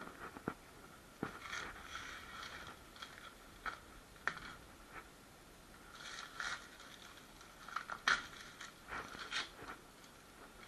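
Faint, scattered clicks, taps and short scrapes of hand work on plumbing, coming in small clusters with gaps between them.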